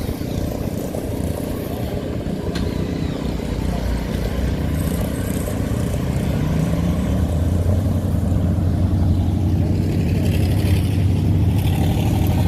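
Car engine rumbling as a car drives out, growing louder in the second half, with a short rise in pitch about six seconds in.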